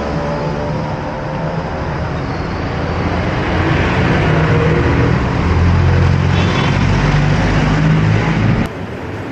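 City street traffic: motor vehicle engines running close by with a low rumble, growing louder through the middle. Near the end the sound drops abruptly to quieter traffic noise.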